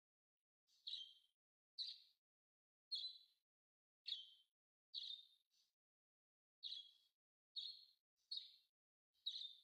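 A small bird chirping over and over, one short high chirp about every second.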